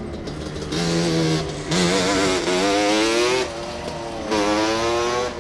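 Dirt bike engine accelerating in three throttle pulls, about a second in, near two seconds and again past four seconds. Each time its pitch climbs, then drops back.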